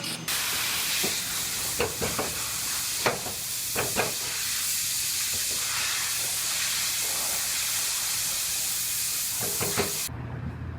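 Compressed air hissing steadily, with a few sharp knocks over it, cutting off suddenly near the end.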